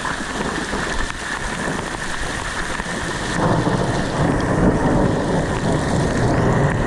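Rain falling steadily, with a low rumble of thunder setting in about halfway through and staying louder to the end.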